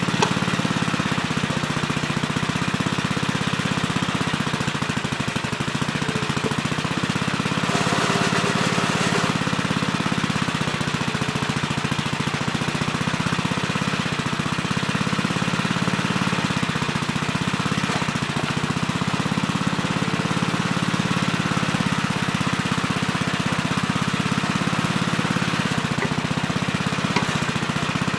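Gravely Terramite compact backhoe's engine running steadily while it digs, its pitch wavering slightly, with a brief harsher, brighter patch about eight seconds in.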